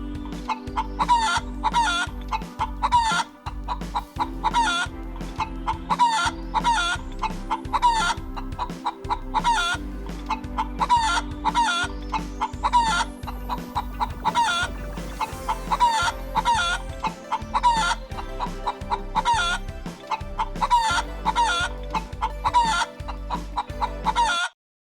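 Chickens clucking over and over, a few short calls every second, over a steady low hum. The sound cuts off abruptly just before the end.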